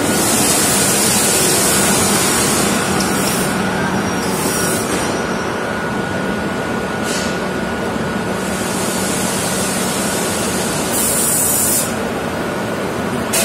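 Passenger train rolling slowly along the platform, with a steady rumble of wheels on rail and repeated short bursts of air hiss.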